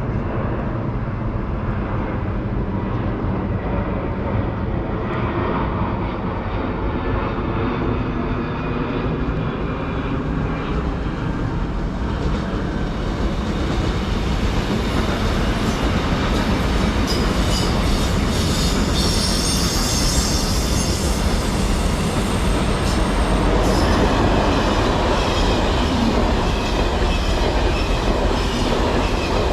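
A train running past on the rails, building up over the first half and loudest past the middle, with a run of sharp clicks from the wheels and a thin high squeal while it is closest.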